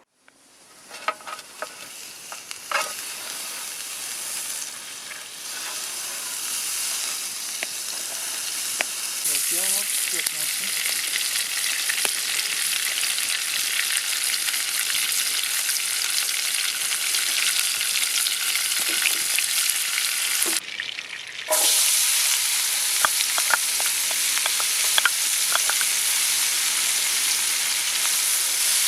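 Chopped onions frying in melted butter in a pan over campfire embers: a steady sizzle that grows louder over the first ten seconds, with a few utensil clinks near the start. It cuts out for about a second around twenty seconds in, then returns a little louder.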